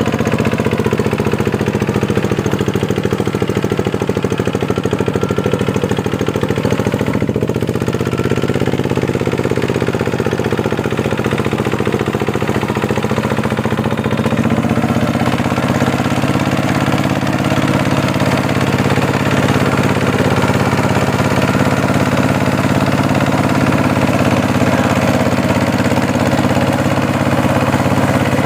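Two-wheel tractor's diesel engine running under load while ploughing a deep, muddy paddy. Its pitch sags briefly about a quarter of the way through, then picks up again about halfway.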